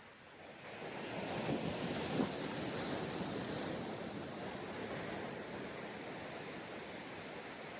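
A sea wave breaking and washing up the sand: the surf swells about a second in, peaks over the next second with a couple of sharp splashes, then hisses away slowly.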